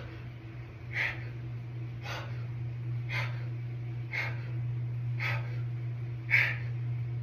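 A man's sharp, forceful exhalations, about one a second, in time with fast reps of dumbbell hammer curls; one breath near the end is louder. A steady low hum runs underneath.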